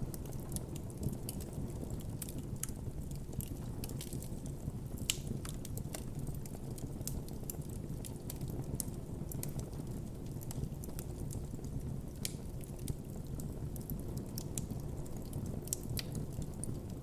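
Wood campfire burning with a steady low rush of flames and frequent irregular crackles and pops from the burning wood.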